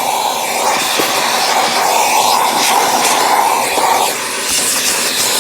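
Corded vacuum cleaner running steadily as its nozzle sucks dirt from a car's interior. Its steady whine fades about four seconds in as the airflow changes.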